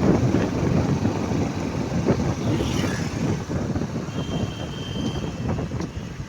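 Rumbling road and traffic noise of motor vehicles on a highway, with a faint high tone for about a second around four seconds in.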